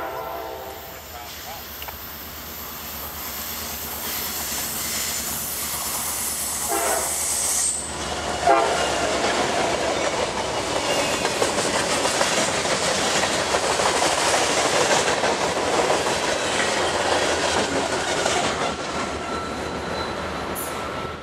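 A CSX freight train passing close by: the end of a diesel locomotive horn blast stops in the first second, then the train's noise grows, jumps up about eight and a half seconds in, and carries on as a steady clatter of freight-car wheels rolling over the rails.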